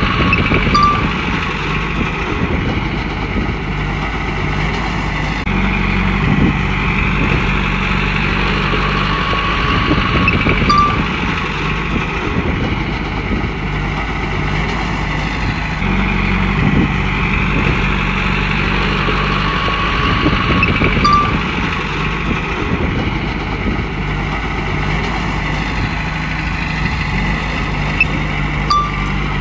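Komatsu bulldozer's diesel engine running loud and steady under working load. Its note shifts in a repeating cycle every five seconds or so as the dozer pushes and backs up.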